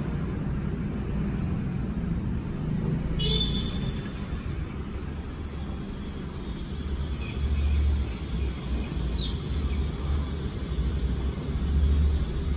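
A steady low rumble with a few brief house sparrow chirps over it, clearest about three seconds in and again about nine seconds in.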